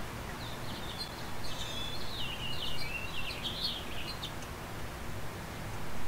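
A songbird singing a quick, high twittering run of chirps for about four seconds, over steady outdoor background noise.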